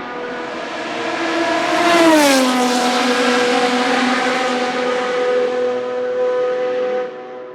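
Maserati MC12 GT1's naturally aspirated V12 race engine passing by at steady revs: the note swells, drops in pitch as the car goes past about two seconds in, holds, then fades near the end.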